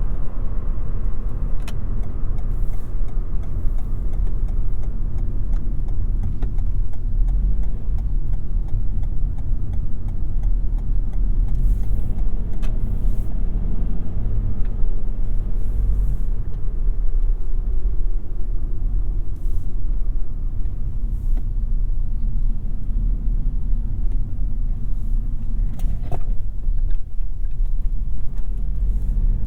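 Toyota Yaris 1.5 Hybrid driving at city speed, a steady low rumble of tyres and road with a few faint clicks.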